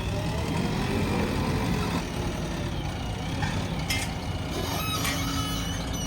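Diesel engine of a backhoe loader running steadily, with a few short squeaks and clicks about four to five seconds in.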